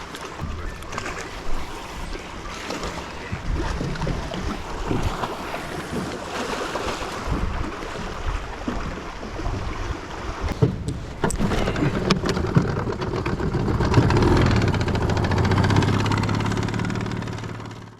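Small fishing boat on choppy lake water: waves slapping the hull with occasional knocks, and wind on the microphone. A low, steady motor hum grows louder near the end.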